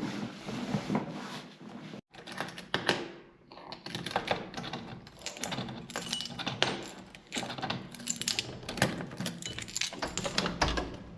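Irregular light clicks and clatters of small hard objects being handled, with a sudden cut about two seconds in.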